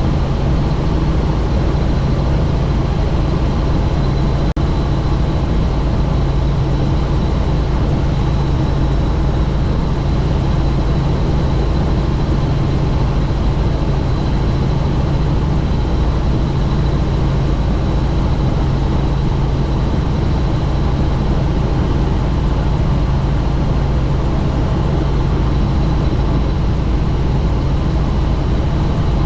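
Helicopter in flight with the doors off: a steady, loud mix of engine and rotor noise and rushing wind, with a thin, high, steady whine running through it.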